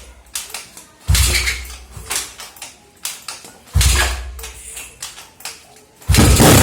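Yamaha Mio scooter's single-cylinder four-stroke engine running through an open racing exhaust with a 32 mm header pipe. The throttle is blipped twice, with short crackles as the revs fall each time. Near the end it is held wide open at high revs.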